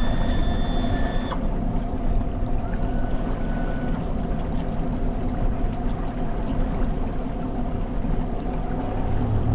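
Sportsman Masters 227 bay boat under way: a steady outboard motor drone under rushing water. A short high tone with overtones rises at the start, holds, and cuts off after about a second and a half.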